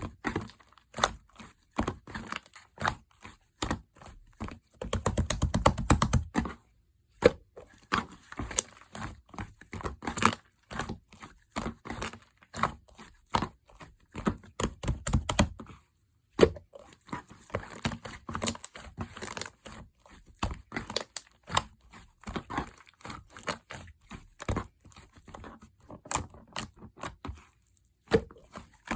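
Slime being squeezed and worked by hand, giving many crackling clicks and small pops. A fast run of clicks comes about five seconds in, and the sound drops out completely for a moment three times.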